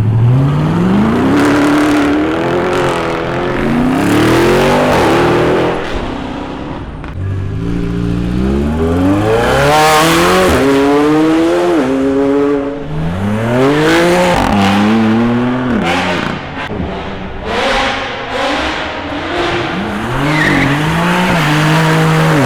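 A car engine being revved hard and driven through the rev range, its pitch climbing and dropping again several times, with tyre squeal in places. Loud.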